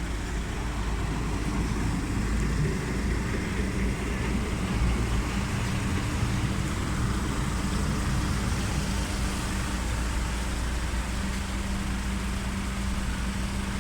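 Car ferry's engine running steadily with a low rumble, under a wash of vehicle and river noise; a steady low hum grows plainer about halfway through.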